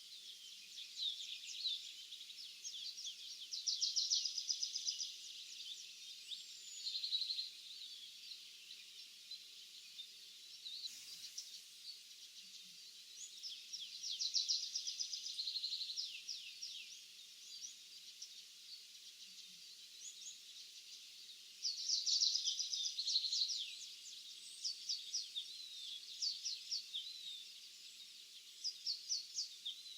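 Small songbirds singing and chirping in a field; one bird repeats a loud, rapid, trilled song phrase three times, roughly every eight to ten seconds, while others give short high chirps between.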